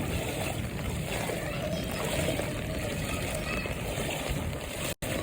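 Vehicles driving through floodwater on a waterlogged road: steady splashing and sloshing of water under the tyres, with engine noise and voices in the background. The sound drops out for an instant near the end.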